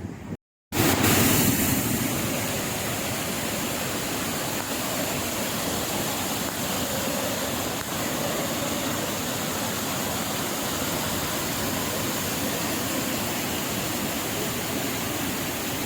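Steady, loud rush of water pouring down a dam's spillway, starting after a brief silence near the start.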